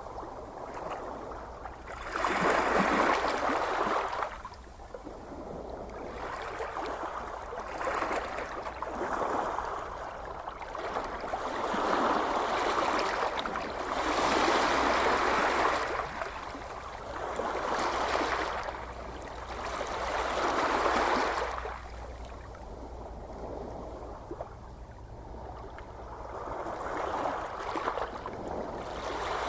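Gentle ocean waves washing ashore, each surge swelling and fading over a couple of seconds, about seven in a row, over a steady low rumble.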